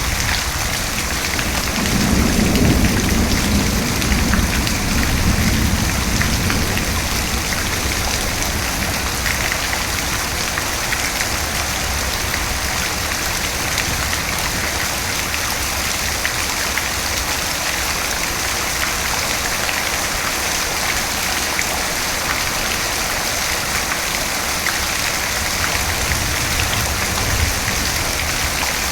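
Steady rain falling, with a low rumble of thunder about two seconds in that fades over the next few seconds.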